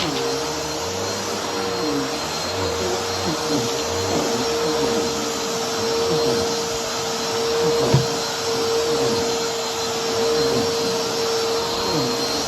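Vacuum cleaner running steadily, its motor holding one steady whine over a rushing airflow, with a short knock about eight seconds in.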